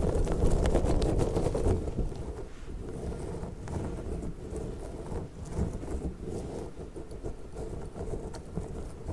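Orange squishy slug toy being squeezed and handled, a dense crackling and sticky tapping texture. It is louder for the first two seconds, then softer with scattered taps.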